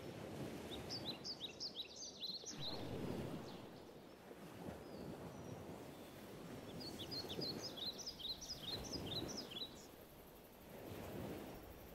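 Songbird singing: two runs of quick, high chirping phrases, about a second in and again around seven seconds in, over a rushing outdoor background noise that swells and fades.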